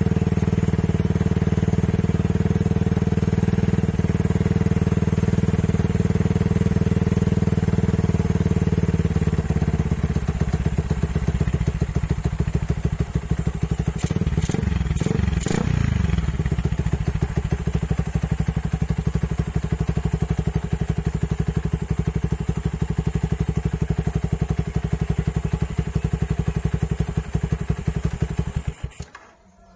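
Yamaha Vixion's single-cylinder four-stroke engine running through a Suzuki Satria F muffler: a steady, higher idle that settles to a slower, pulsing idle about ten seconds in, with a few quick throttle blips around halfway. The engine is switched off just before the end.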